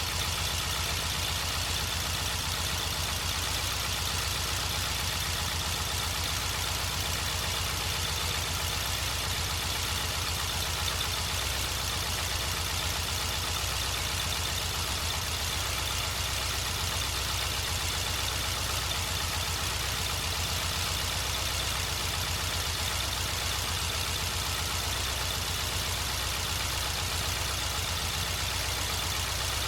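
Air-cooled 2.0-litre VW Type 4 flat-four with dual Weber 40 IDF carburettors idling steadily, a little under 900 rpm, with an even low pulse.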